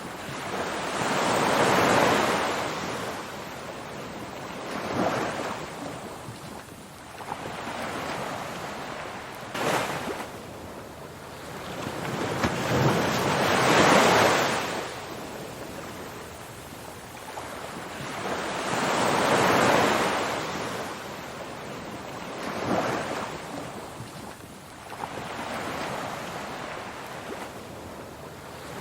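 Ocean surf: waves washing in and receding, the hiss swelling and fading every few seconds, with the biggest swells about two seconds in, near the middle and about two-thirds through.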